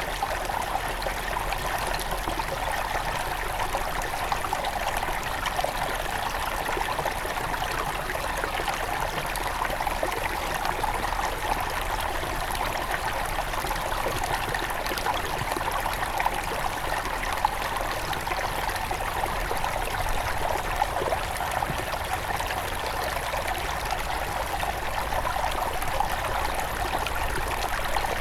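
Small forest river at its headwaters, flowing and trickling steadily over stones, with small irregular splashes and gurgles.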